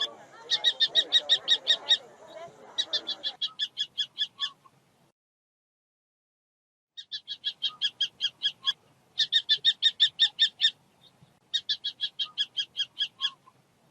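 Kestrel calling: five rapid runs of sharp, high 'kee-kee-kee' notes, about seven a second, each run lasting about a second and a half, with a pause of a couple of seconds in the middle.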